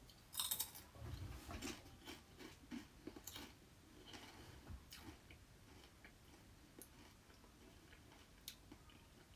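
Faint, irregular crunching and scraping of boots treading down soil and rubble in a skip, compacting the load; busiest in the first few seconds, then sparser.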